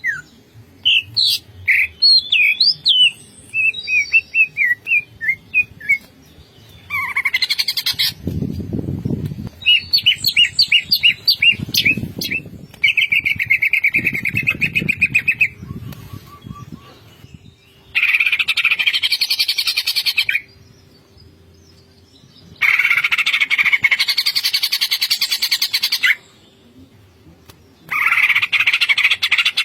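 Green leafbird (cucak ijo) singing: quick varied whistled notes at first, then repeated bouts of fast rattling chatter, each a few seconds long with short pauses between.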